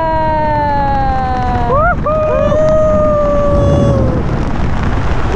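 A skydiver's long, drawn-out yells, each held for a second or two and slowly falling in pitch, with a short rising whoop about two seconds in, over the steady rush of wind on the microphone.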